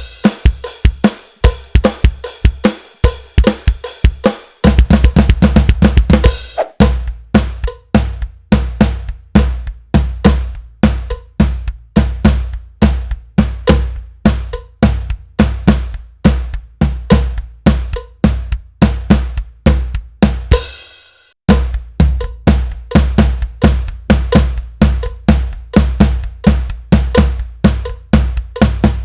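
Drum kit playing a groove with a fill of alternating single strokes on the drums mixed with kick drum hits, grouped 6, 6 and 4, played over and over. About 21 s in, the playing stops on a ringing cymbal stroke, then starts again.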